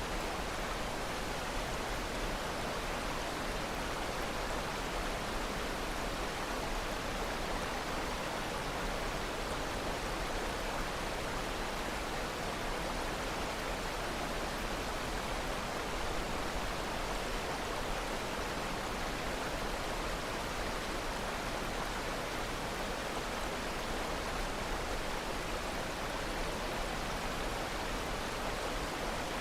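Steady rushing water, like a stream or waterfall: an even hiss that neither rises nor breaks.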